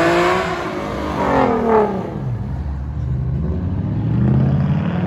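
Car engine revving hard: the pitch climbs at the start, falls away about two seconds in, then climbs again near the end.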